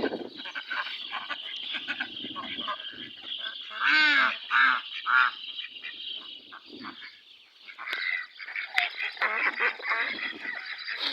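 Animal calls: three loud, arching cries in quick succession about four to five seconds in, then more fainter calls near the end, over a steady high chatter.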